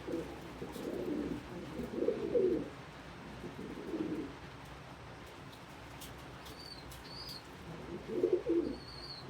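Domestic pigeons cooing: several low, warbling coos spread through, with a few faint short high chirps in the second half.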